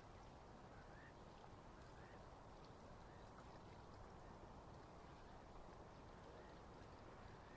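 Faint lakeside ambience: a steady, low, even wash of water and distant background noise, with a few faint short chirps in the first few seconds.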